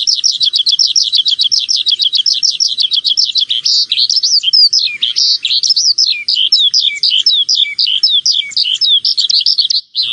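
A small songbird singing a fast, unbroken twittering song: a rapid string of high chirps, many a second, turning about midway into more varied, down-slurred notes. It cuts out for a moment near the end.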